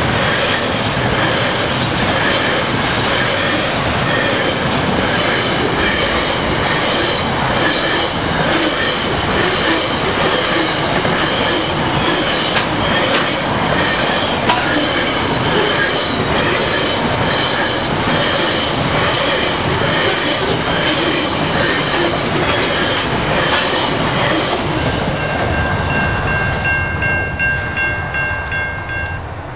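SCT Logistics freight train's wagons passing at speed: a steady loud rush and rattle of wheels on rail with high steady ringing tones over it. It fades quickly near the end as the last wagon goes by.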